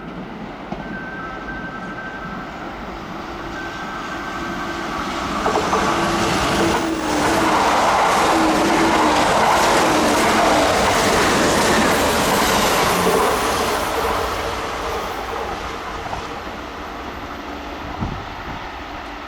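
Kintetsu electric train passing: its noise builds from about five seconds in, is loudest for several seconds in the middle, then fades away.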